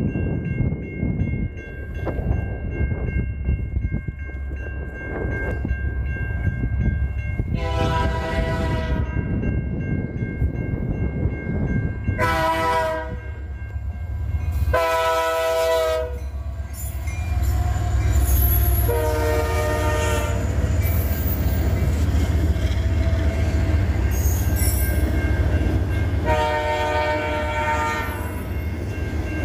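Freight train locomotive horn sounding about five blasts, the last one the longest, over the steady rumble of the train, which grows louder in the second half as it passes.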